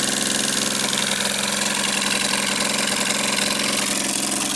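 Suzuki G10 one-litre three-cylinder fuel-injected petrol engine idling steadily on a test stand, running with no exhaust system built yet.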